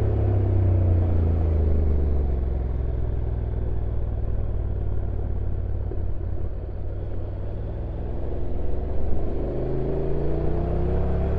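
Stock Honda NC750X DCT's parallel-twin engine on a downhill ride: the engine note falls away over the first few seconds as the bike slows, stays low and quieter through the middle, then rises again in the second half as it picks up speed, over a steady low rumble.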